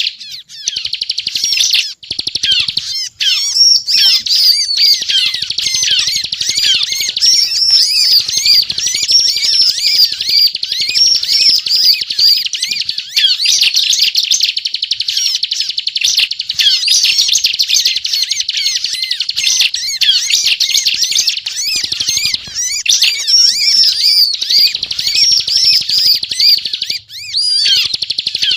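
Bar-winged prinia (ciblek) singing a fast, almost unbroken chattering run of rapid high notes: the continuous 'ngebren' song of a bird in full voice. The song dips briefly twice, about two seconds in and near the end.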